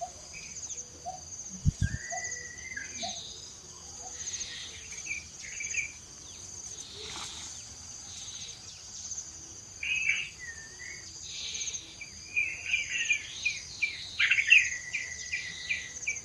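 Steady high insect trilling with chirps and short gliding calls over it, the calls growing busier in the last few seconds. A single low thump about two seconds in.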